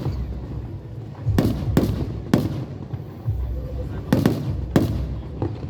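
Aerial fireworks shells bursting in quick succession: about six sharp cracks with deep rumbling booms in between.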